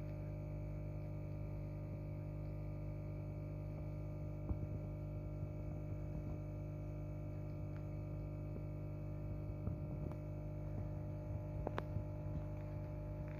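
Steady low electrical hum made of several even tones, with a few faint clicks now and then.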